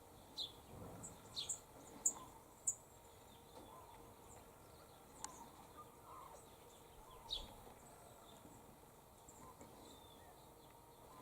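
Faint outdoor bird sounds: short, high chirps at scattered moments, over a quiet steady background.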